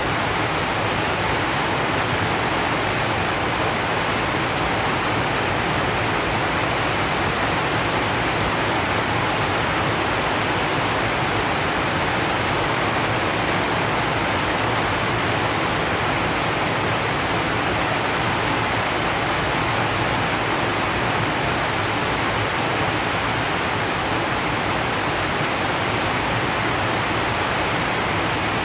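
Heavy rain falling steadily on a zinc sheet roof, a dense, even hiss in which no single drops stand out.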